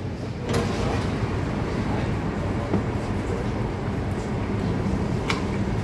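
Berlin U-Bahn type JK train under way, heard from inside: a steady rumble of the train running on the rails that grows louder about half a second in, with a sharp click about five seconds in.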